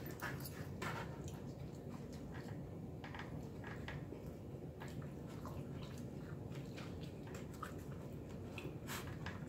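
Close-up mouth sounds of someone chewing pizza: scattered wet clicks and smacks over a faint steady low hum.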